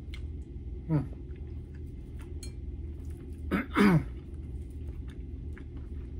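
A man chewing fried chicken eaten by hand, faint clicks of chewing over a steady low room hum. Two short murmured vocal sounds falling in pitch come about a second in and near the middle.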